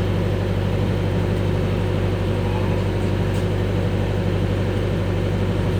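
Airport apron bus engine running with a steady low drone.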